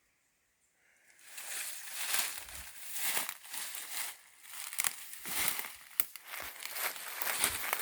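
Footsteps crunching and rustling through dry leaf litter and undergrowth, starting about a second in and going on in an irregular run of crackly steps.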